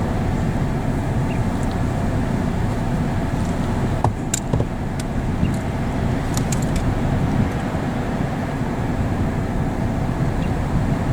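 Steady low rushing noise, with a few short, high chirps about four and six seconds in.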